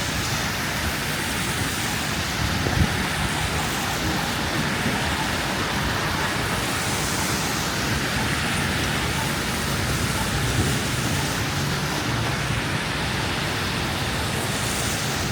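Steady city street noise in a snowstorm: traffic running with a constant hiss, swelling now and then as cars pass, mixed with wind noise.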